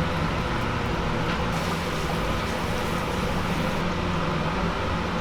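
Steady mechanical drone with a constant low hum under a rushing noise.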